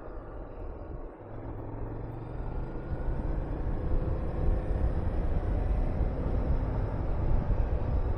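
Honda VTR250 V-twin motorcycle engine under way. It drops briefly about a second in, then pulls with a slowly rising pitch while low wind rumble on the microphone grows louder.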